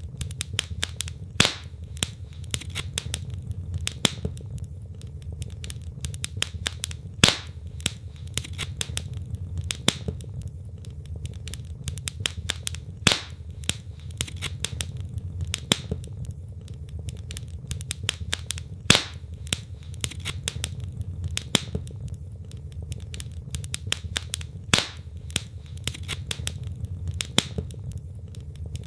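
Wood logs burning in a fireplace, crackling continuously, with a louder pop every few seconds over a steady low rumble.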